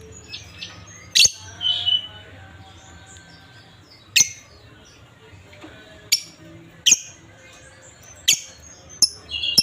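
Lovebirds giving short, shrill calls, about seven sharp ones at irregular intervals, with softer chirps in between.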